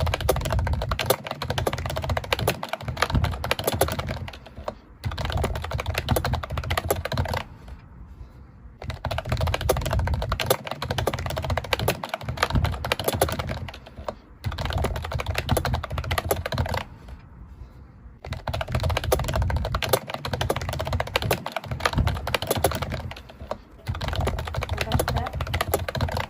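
Slime being stirred and worked as detergent activator is mixed into the glue, a rapid run of clicks and crackles. It comes in stretches of a few seconds with short pauses between.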